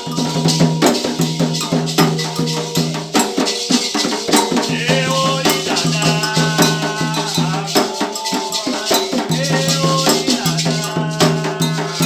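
Candomblé ritual music: voices singing over steady, dense percussion with shaken rattles.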